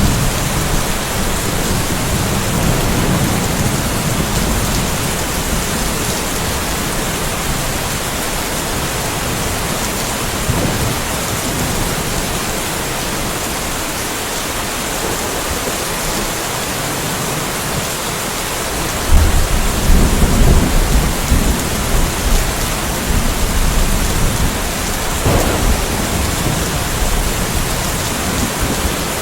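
Steady rain falling through a light thunderstorm. A low roll of thunder sounds near the start; about two-thirds of the way in a louder, sudden thunder crack rumbles on for several seconds over the rain.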